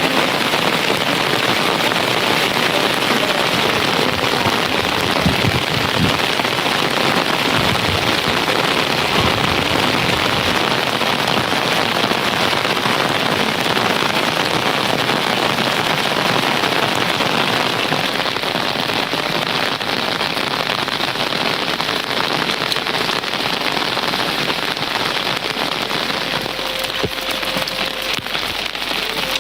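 Heavy rain falling steadily as a dense, even hiss, easing slightly over the last few seconds.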